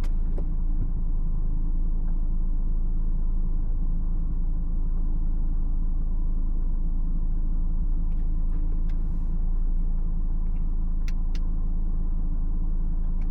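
A BMW X4 xDrive20d's 2.0-litre four-cylinder turbodiesel running as the car drives, with road noise in a steady low rumble. A few faint light clicks come through about eight to eleven seconds in.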